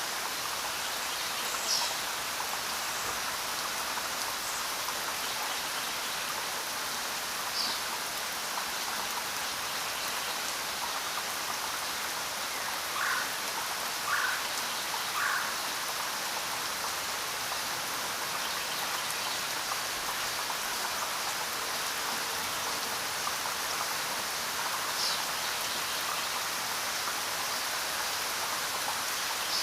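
Steady rain falling, an even hiss with a few louder single drops now and then, three of them close together about halfway through.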